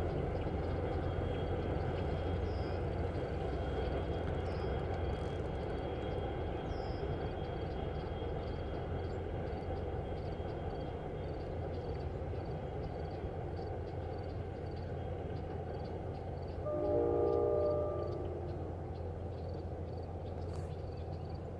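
Distant diesel commuter train running over a steel trestle viaduct, a steady low rumble that slowly fades as it moves away. About 17 seconds in, its horn sounds briefly, a chord of several tones lasting a second or two.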